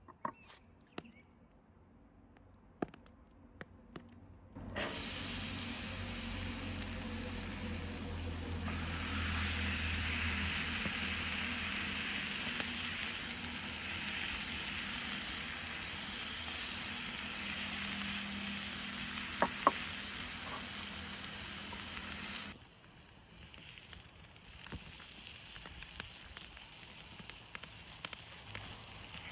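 Ribeye steak sizzling hard in a hot pan over a campfire. The sizzle starts suddenly about five seconds in and cuts off sharply about two-thirds of the way through. Before and after it there are only faint ticks and crackles from the fire.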